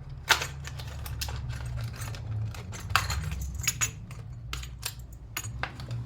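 Irregular light clicks and clinks of small hard parts being handled and opened, with the sharpest click about a third of a second in, over a steady low hum.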